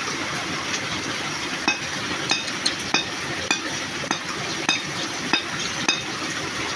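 Steady hiss of rain, with a short sharp chip or click repeating about every half second to a second from a little under two seconds in.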